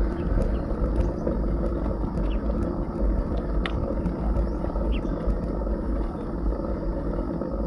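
Wind buffeting an action camera's microphone during a bicycle ride, a steady low rumble mixed with road noise, with a few faint sharp ticks.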